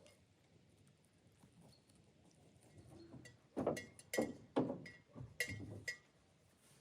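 About five sharp knocks or clinks, irregularly spaced, in the second half, several with a brief metallic ring.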